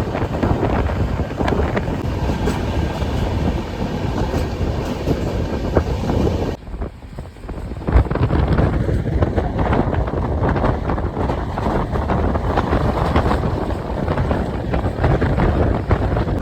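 Moving passenger express train running at speed, a steady rumble with wind buffeting the microphone and a stream of small clicks from the wheels on the track. The noise drops abruptly for about a second and a half around seven seconds in, then comes back with a sharp knock.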